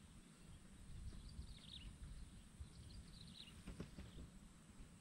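Near silence with a bird's faint high chirps, each sliding down in pitch, coming about every second and a half over a low rumble. A soft click comes late on.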